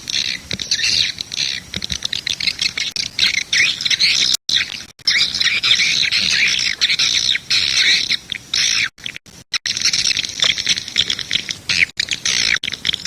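Swiftlet calling-sound recording: a dense, continuous chorus of high, rapid chirps and twitters, broken by several sudden, brief dead-silent gaps.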